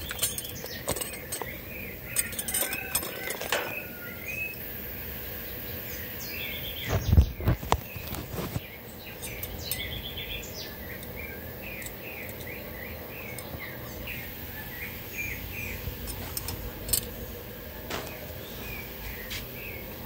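Small birds chirping in quick series of short, high chirps, with a loud bump and rubbing from the phone being handled about seven seconds in.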